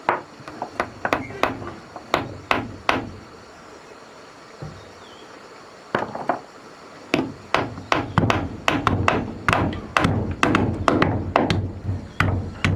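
Repeated sharp blows of a hand tool striking: about eight blows in the first three seconds, a pause, then a faster, denser run of blows from about six seconds in.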